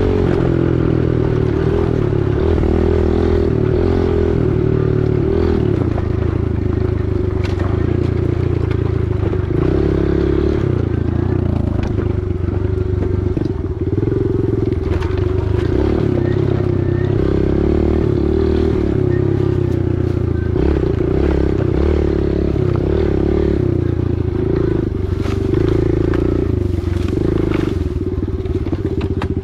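Small four-stroke single-cylinder dirt bike engine running while being ridden, its engine speed stepping up and down with the throttle.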